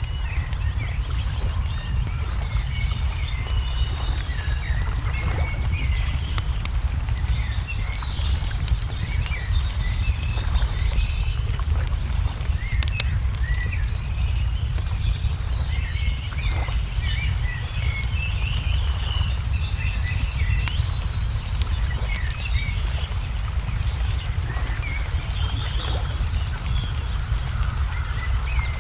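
Wood fire crackling with scattered sharp pops over a steady low rumble, while songbirds chirp and twitter in short, frequent calls.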